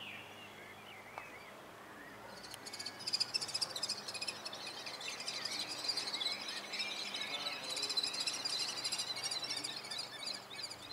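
Birds chirping: a dense, quick chatter of short high notes that starts about two and a half seconds in and keeps on, after a few faint calls.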